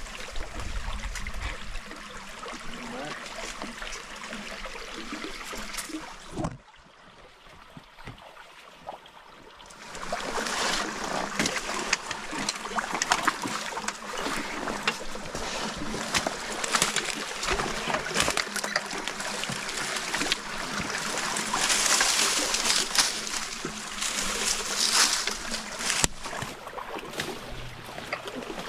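Shallow stream water splashing and trickling, with many small sharp splashes as people wade through it. The sound drops away briefly from about six and a half to ten seconds in, then returns louder.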